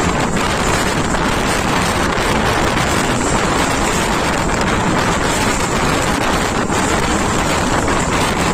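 Steady rumble of a moving passenger train at running speed, heard from beside the coach, with wind rushing over the microphone.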